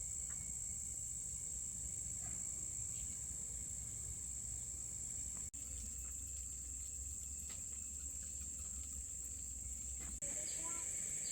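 Steady high-pitched buzzing chorus of insects, broken twice by a brief sudden dropout.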